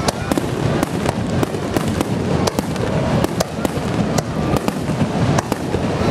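Aerial firework shells bursting in a dense barrage: an irregular string of sharp bangs and cracks, about three or four a second, over a continuous low noise.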